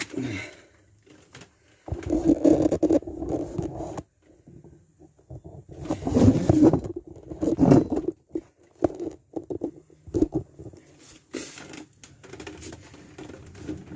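Hand tools working on rear drum-brake hardware as a brake-shoe clip is worked free: metal scraping and rattling in two bursts of a couple of seconds each, then a few short clicks.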